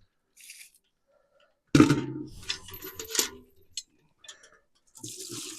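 A sudden clunk and clatter of a container or dish being handled, then water being poured near the end.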